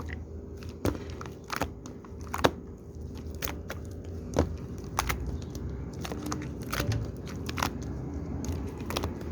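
Hands working a mass of shaving foam, making irregular sticky clicks and crackles with a few louder snaps, over a low steady hum.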